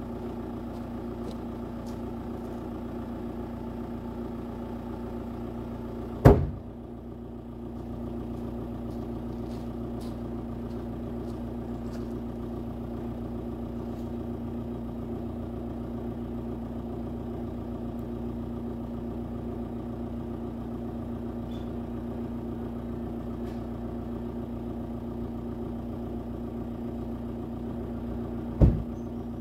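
Audi A6 C6's 2.0 TDI (BRE) four-cylinder diesel idling steadily, heard from behind at the exhaust. Two loud single thumps cut in, one about six seconds in and one near the end.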